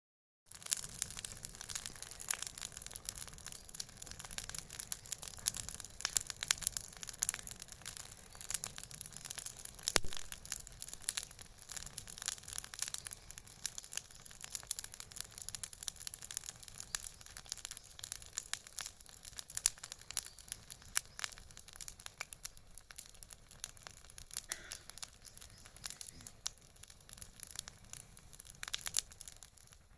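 Bonfire crackling, with dense, irregular snaps and pops and a louder pop about ten seconds in.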